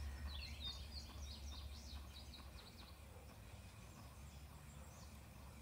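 A songbird singing a quick run of short, high chirps for the first two seconds or so, over a faint low hum that fades away.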